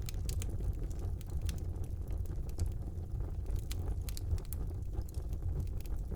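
Wood fire burning in a brick fireplace: a steady low rumble of the flames with irregular sharp crackles and pops, bunching into quick runs in places.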